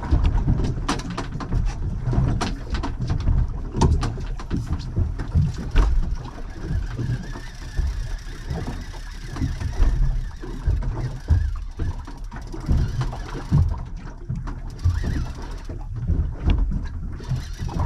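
Handling noise aboard a small anchored fishing boat: irregular knocks and clicks over a low rumble of wind and water, as a rod is worked with a fish on.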